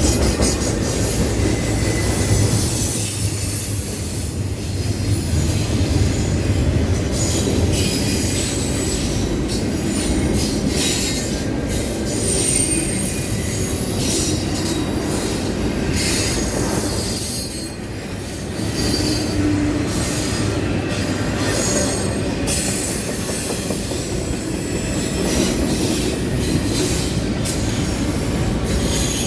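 Intermodal freight cars rolling steadily past, with a continuous rumble of wheels on rail and short high-pitched wheel squeals scattered through it as the wheel flanges grind around a curve.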